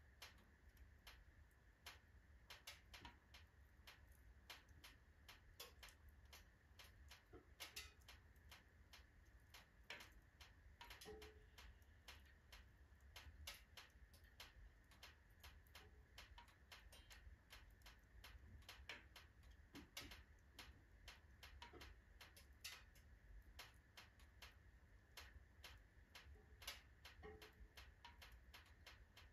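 Wood fire of mostly oak logs burning in a fireplace stove, crackling faintly with irregular sharp clicks and pops.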